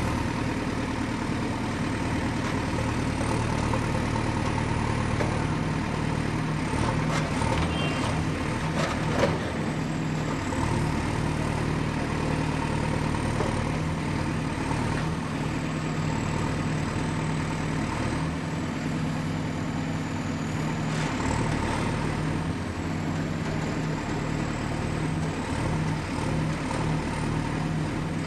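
Excavator's diesel engine running steadily under work, with a few sharp knocks about a quarter to a third of the way in and one more later.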